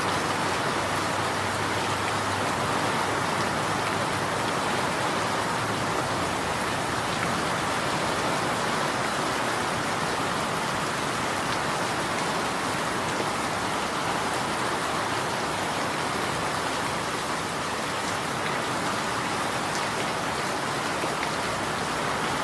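Steady rain falling on a hard surface, with fine drops pattering evenly and no change in intensity.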